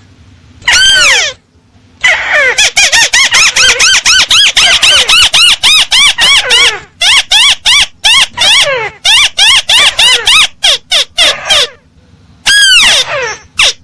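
Crake (burung tikusan) calls from a bird-lure recording. A long, downward-sliding call comes first. It is followed by a rapid run of short, arched, falling notes, about three a second, for some ten seconds. Another long descending call comes near the end.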